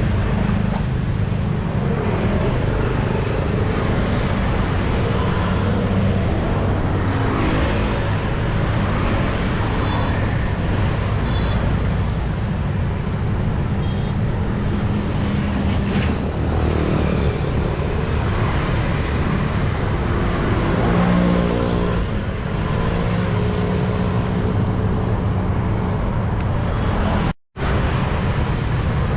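City road traffic heard from a moving bicycle: a steady low rumble with engines passing close by several times. The sound drops out completely for a moment near the end.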